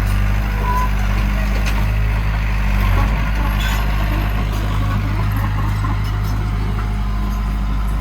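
Diesel engine of heavy earthmoving machinery running steadily with a deep, even hum, its pitch shifting slightly about three seconds in.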